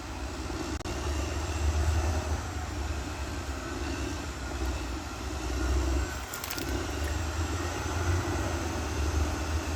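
Caterpillar D6R XL bulldozer's diesel engine running steadily under load with a deep rumble. It eases briefly about six seconds in, with a short clatter, then picks up again.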